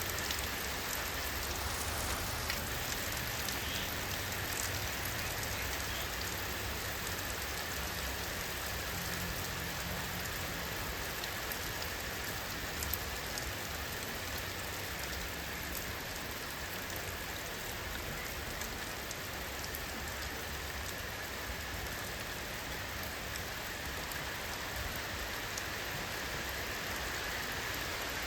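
Steady rainfall: a continuous even hiss of rain with scattered individual drop ticks.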